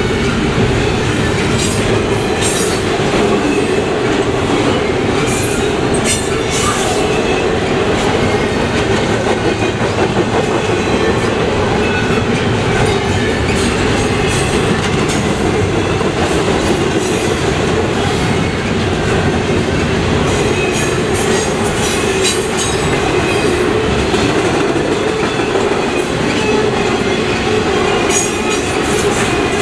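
Freight train rolling past close by: a steady rumble of cars, wheels clicking over rail joints, and now and then a high wheel squeal.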